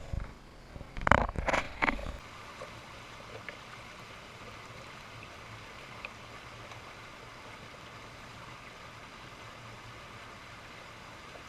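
Creek water flowing steadily, after a few loud knocks and rustles in the first two seconds.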